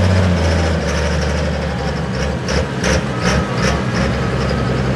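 Triple-turbocharged Cummins diesel pulling truck engine running just after its pull, dropping in revs about half a second in and then idling unevenly, with a run of sharp clicks between about two and four seconds.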